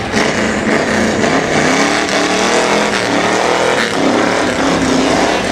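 Old-school American V8 engine revving hard in a rolling burnout, its pitch rising and falling, over the hiss of spinning tyres.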